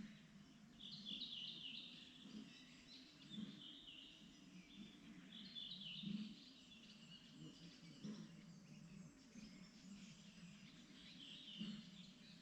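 Faint songbird song in the spring: a short chirping phrase about a second in, another around the middle and a third near the end, over a steady low background rumble.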